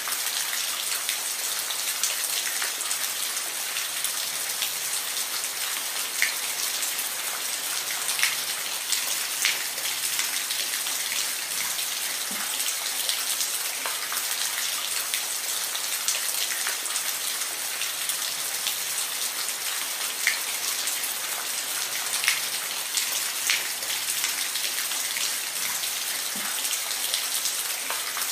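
Steady rain falling, an even hiss with scattered individual drops hitting a surface close by.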